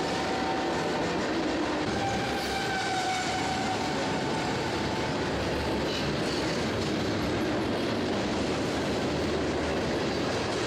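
Freight train cars rolling past: a steady rumble of steel wheels on rail, with a faint wheel squeal between about two and four seconds in.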